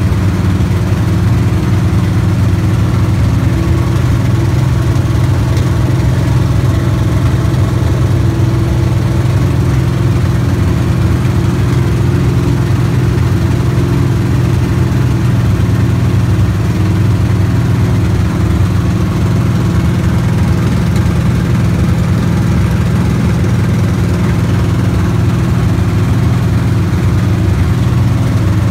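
Stock car engine idling steadily at low revs, with no revving.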